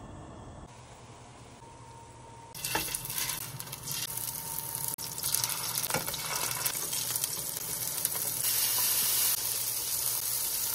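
Fish patties sizzling loudly as they fry in oil in a nonstick pan, the sizzle starting abruptly about two and a half seconds in after a quieter stretch, with a couple of sharp clicks along the way.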